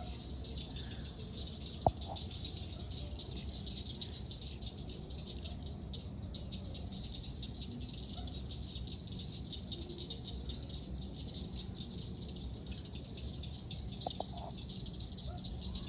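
Steady chorus of night insects trilling continuously, with a single sharp click about two seconds in.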